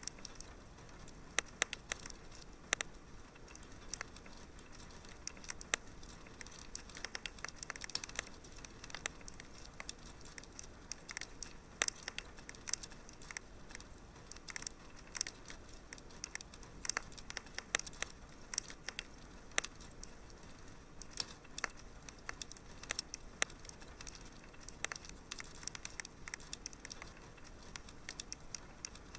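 Fireplace fire crackling: irregular sharp pops and snaps, several a second, over a soft steady hiss.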